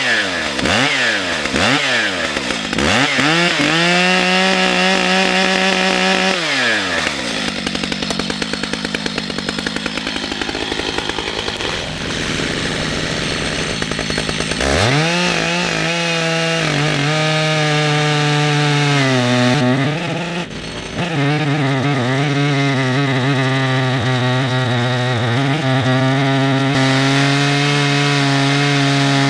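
Two-stroke chainsaw on a chainsaw mill cutting red oak. It revs up and down a few times, is held at high revs, then drops back for several seconds. About fifteen seconds in it climbs to full revs again and runs steadily at a slightly lower pitch, as under cutting load, dipping briefly partway through.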